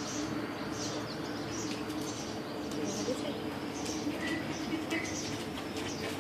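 Birds chirping: short high chirps about two a second, over a steady low hum.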